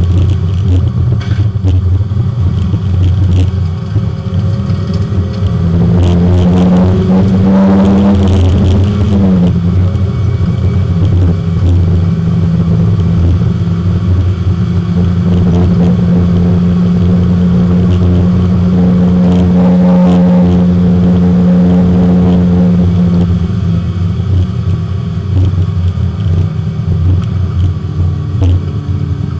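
Porsche 924 race car's four-cylinder engine running under load, heard from inside the cabin. The engine note climbs, drops sharply about nine seconds in, holds steady again, then eases off in the last few seconds.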